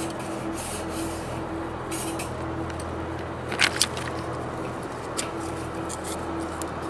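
Wood fire crackling in a fire stand, with two sharp pops close together a little past halfway and a smaller pop near the end.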